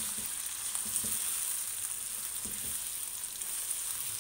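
Chicken pieces with onions, tomato and ginger-garlic paste sizzling in hot oil in a nonstick wok while a spatula stirs them, knocking against the pan a few times.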